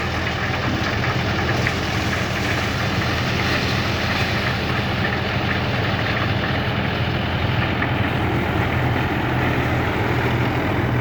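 Tractor engine running steadily, driving an attached maize-shelling machine: a constant engine note under a dense, even mechanical noise.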